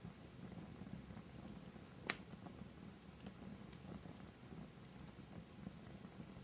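Wood fire burning in a fireplace: a low, steady rumble of flames with scattered faint crackles and one sharp pop about two seconds in.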